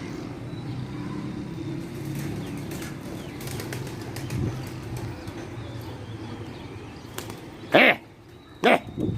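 A flock of pigeons flying close by, with wings flapping. Near the end come three loud, short, sharp sounds.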